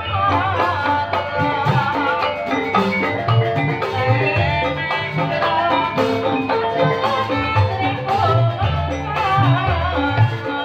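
Live Ebeg dangdut-kreasi music: gamelan-style mallet percussion playing a busy, repeating melody over steady drum beats, with a wavering melody line on top.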